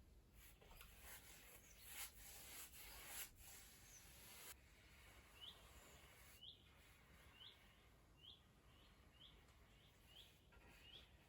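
Faint bird chirping: a run of short, rising chirps repeated about once every second, after a few soft rustling strokes.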